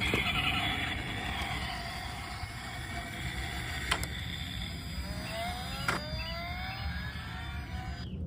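Small electric motor of a battery-powered toy vehicle whirring, switched on with a click. Two sharp clicks come midway, and its pitch rises in the second half before it cuts off abruptly.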